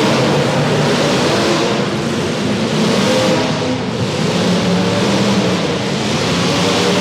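Several demolition derby cars' engines running and revving together, their pitch rising and falling.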